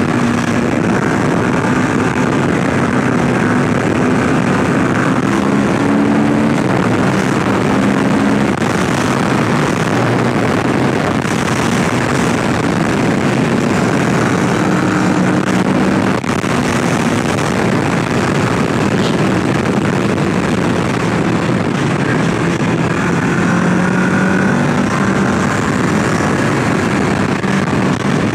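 Kawasaki Ninja 650's parallel-twin engine running hard through a series of bends, its note shifting in pitch several times with throttle changes. Heavy wind rush on the helmet-mounted microphone sits over it.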